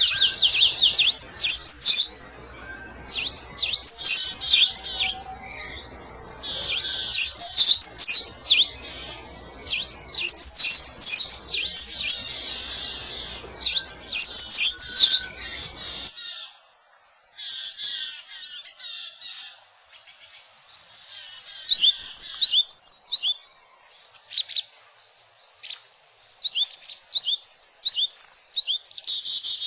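Small wild songbirds chirping, many short high calls in quick bursts with brief gaps between. A low background hiss under the first half cuts off suddenly about sixteen seconds in.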